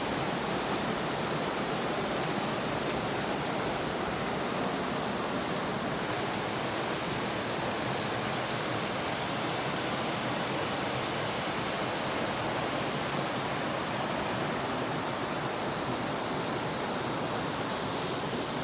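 Waterfall rushing with a steady, even roar of falling water that holds at one level throughout.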